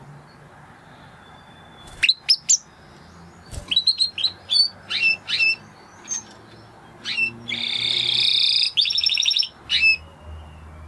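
Spanish Timbrado canary singing. After a quiet start come a few sharp chirps, then a run of quick falling notes, a buzzing trill and a rapid series of repeated notes.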